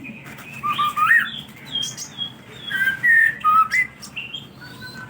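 White-rumped shama (murai batu) singing a run of varied, clear whistled notes, many sliding up or down in pitch.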